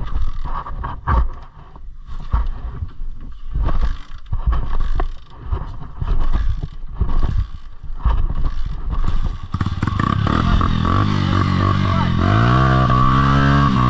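Irregular knocks and rumbling handling noise, then a dirt bike's engine running and revving up near the end, holding a steady higher note.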